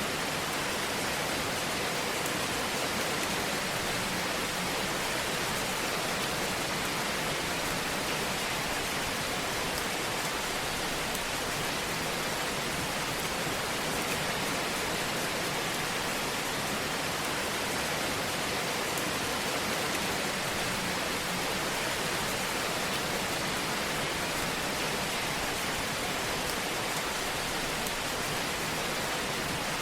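Wood fire in a fireplace, crackling and hissing in a dense, steady wash of small pops, with no louder snaps standing out.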